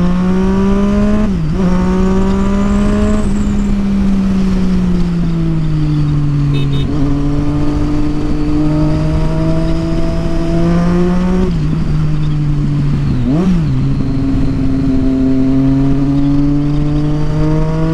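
Triumph Street Triple 675's inline-three engine with a Yoshimura exhaust, accelerating hard in fourth gear: the pitch climbs under throttle, eases off and climbs again, with a couple of quick sharp dips, over wind rushing across the microphone.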